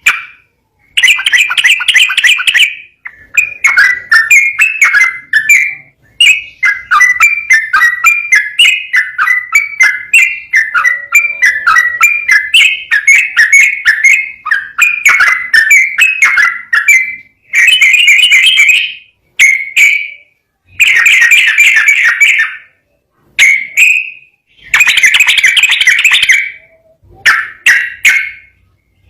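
Sooty-headed bulbul (trucukan) singing fast, rolling chattering phrases. It sings in bursts: one long unbroken run of quick notes in the middle, then shorter phrases with brief pauses between them.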